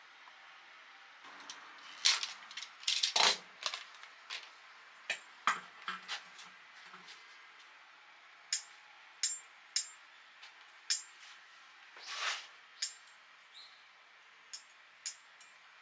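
Steel fire tongs being handled, with irregular sharp metallic clicks and clinks, a louder cluster of clanks about two to three seconds in.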